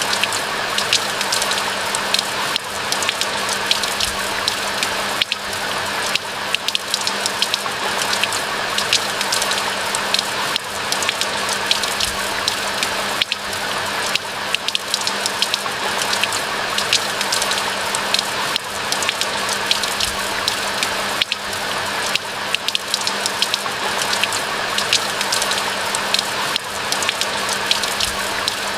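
Steady rain: an even hiss of falling water with a dense patter of sharp individual drop ticks throughout.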